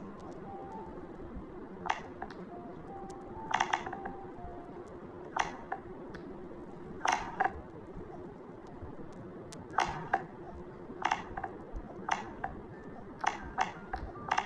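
A series of about a dozen sharp clicks or taps at irregular intervals, some in quick pairs, over a steady low background hum.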